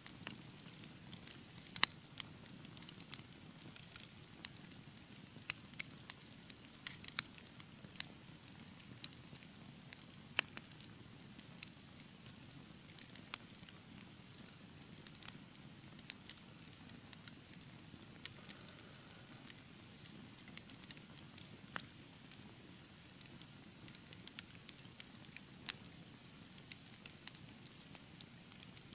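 Wood fire burning in a fireplace: a steady low rumble of flame with irregular sharp crackles and pops, a couple of louder pops standing out about two and ten seconds in.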